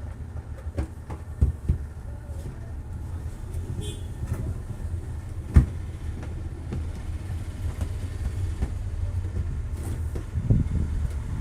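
A steady low hum with scattered clicks and knocks, the loudest a sharp knock about five and a half seconds in.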